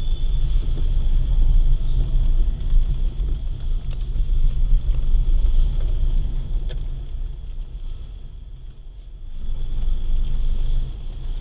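Car driving on a street: a low, steady rumble of engine and road noise. It eases off about eight seconds in and builds again.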